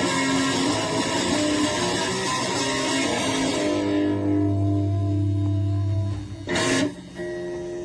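Electric guitar played through a Boss DS-1 distortion pedal: gritty distorted chords, then a held chord left ringing and fading. A brief harsh noise about six and a half seconds in, followed by a last sustained note.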